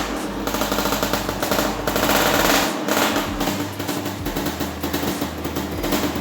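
Motorcycle engine running with a rapid, rattling exhaust beat.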